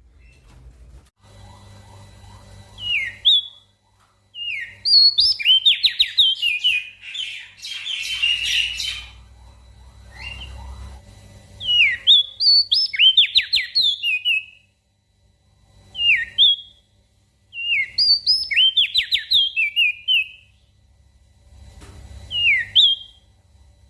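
Opior jambul (crested dark-eye) singing in repeated bouts of quick, downward-sliding whistled notes, with short pauses between phrases and a dense chattering burst about eight seconds in.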